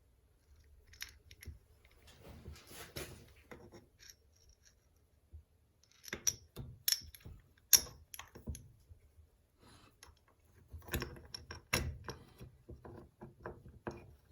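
Small metal starter-motor parts being handled and fitted together: scattered clicks and taps, busier in two spells about six and eleven seconds in.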